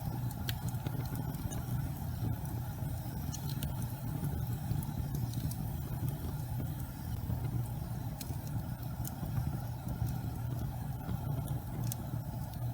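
Gas fireplace burning: a steady low rumble of flame, with a few faint, sharp crackles scattered through it.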